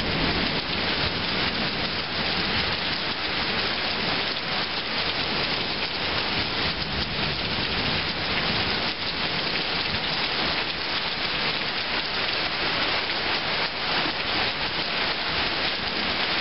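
Heavy rain pouring down during a thunderstorm, a steady, even hiss.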